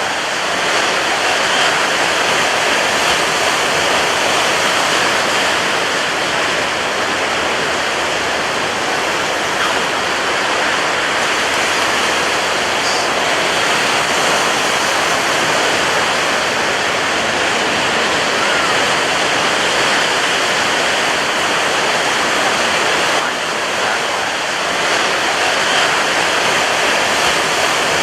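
Ocean surf crashing on a beach: a dense, steady wash of breaking waves with no clear gaps between them.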